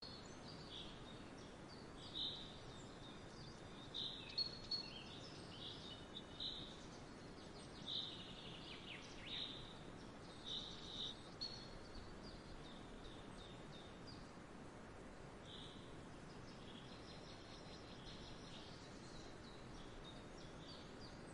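Birds chirping on and off over a quiet, steady background hiss, with short high calls coming thickly in the first half and only now and then after that.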